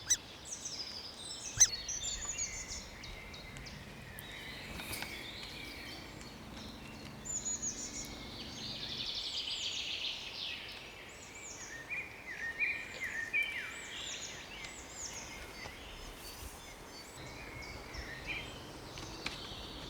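Birds chirping: many short, high, falling calls repeated over and over, with a denser buzzy trill about ten seconds in. A couple of sharp clicks come near the start.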